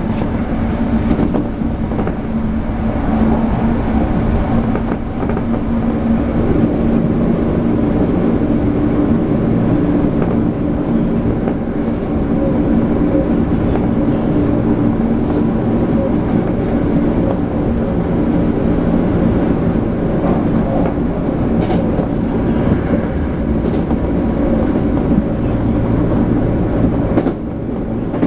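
Toei 5300 series commuter train heard from inside the passenger car while running between stations: a steady rumble of wheels and car body with a low, even hum, easing off slightly near the end.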